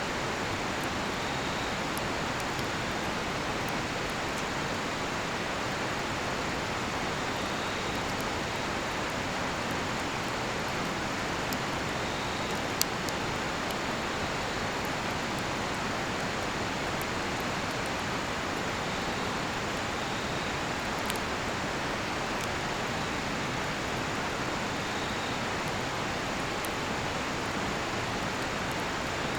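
Steady rushing of a river, with the cedar-wood campfire giving small scattered crackles and one sharper pop about halfway through. Faint high insect chirps come every few seconds.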